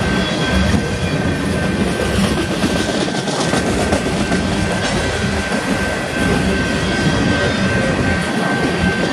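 Empty coal hopper cars of a freight train rolling past, steel wheels running over the rail in a steady noisy rumble and rattle. A thin steady high whine sits over it.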